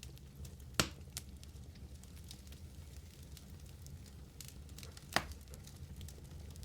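Wood fire in a fireplace crackling, with many small snaps and two loud sharp pops, one about a second in and another near the end, over a steady low rumble of the flames.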